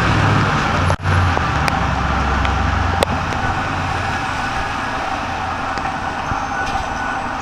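City street traffic noise, with a vehicle's low engine rumble that fades out about three seconds in.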